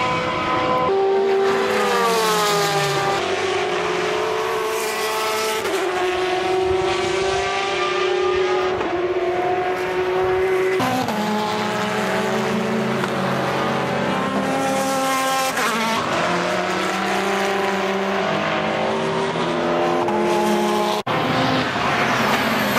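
Race car engines running at high revs, their pitch gliding and stepping as the cars shift gears and go by, one after another. The sound cuts off abruptly for an instant shortly before the end.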